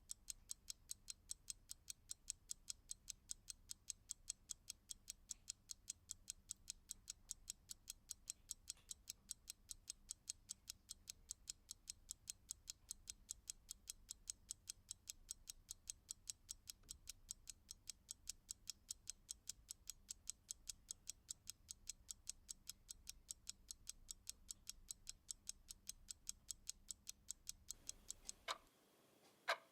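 Clock ticking in a quick, even rhythm, several ticks a second, over a faint low hum. Near the end the ticking changes to a slower, sparser, louder tick and the hum drops out.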